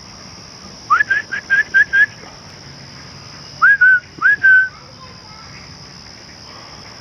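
Clear whistled notes: a quick run of six short rising notes, then after a pause of about a second and a half four longer notes that slur up and level off.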